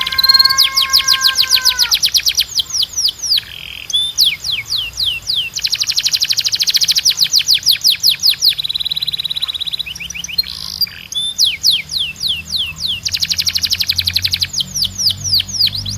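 Spanish Timbrado canary singing loud phrases of rapid trills: runs of quick down-sweeping notes alternating with fast buzzing rolls, broken by short pauses. A steady lower tone sounds under the song for the first two seconds.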